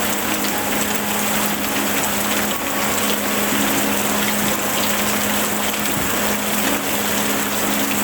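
Steady rain, an even hiss of falling water, with a constant low hum underneath.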